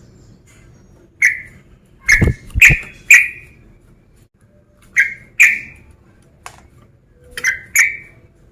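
Male yellow-vented bulbul (trucukan) giving short, sharp, loud call notes in quick groups of two or three. This is the challenging 'fighter' call used to provoke other bulbuls.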